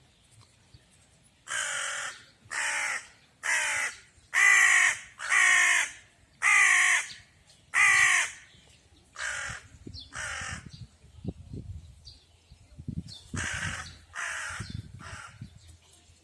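A bird giving a run of loud, harsh calls, about one a second for several seconds, followed by a few fainter calls later, as if from further off.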